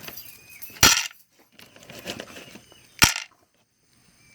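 A dog's food bowl clinking sharply twice, about two seconds apart, as the dog eats from it.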